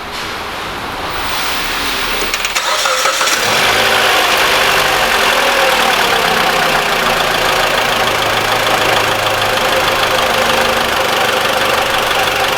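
Mitsubishi ASX's 1.8-litre petrol engine cranked by the starter and catching about three seconds in, then idling steadily. At this moment it runs smoothly, with none of the rattle from the belt-driven pulleys that the car came in with.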